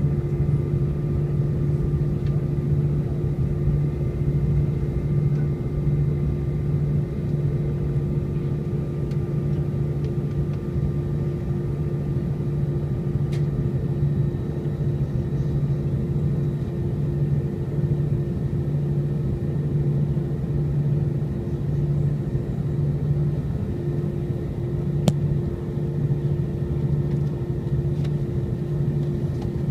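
Steady cabin drone of an Airbus A320-232 with its IAE V2500 engines running, heard from inside the passenger cabin: an even low rumble with constant humming tones, and a couple of faint clicks.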